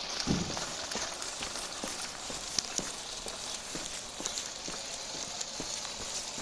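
Small 3D-printed ground vehicle driving, its plastic running gear clattering with irregular sharp clicks over a steady noisy hiss, with one stronger low knock just after the start.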